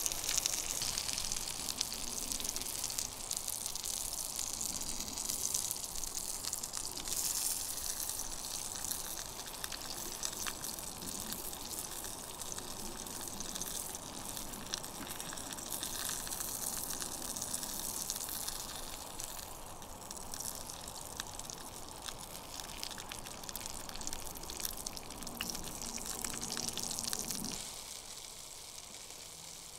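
Kelly kettle drawing hard on an open campfire: a steady rushing hiss of fire roaring up through the kettle's chimney, with scattered crackles. The hiss drops away near the end.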